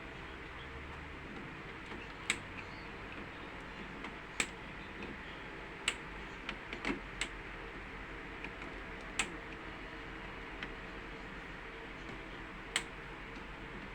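Sharp metallic clicks of hand tools on breaker terminals, spaced irregularly one to three seconds apart with a quick cluster near the middle, over a steady electrical hum from the panel.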